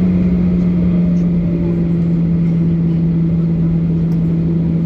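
Boeing 737-800 cabin noise: the CFM56 jet engines' steady drone with a strong low hum that sinks slightly in pitch, over a constant rush of air.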